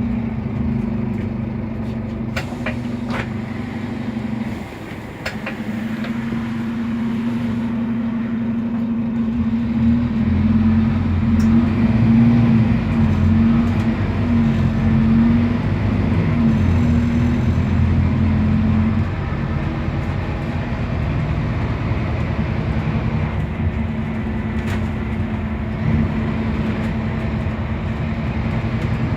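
Scania K280UB city bus with a Scania DC9 diesel engine and ZF Ecolife automatic gearbox, driving, with a steady whine over the engine. It dips briefly about four seconds in, builds louder for several seconds in the middle, then eases back, with a few light clicks.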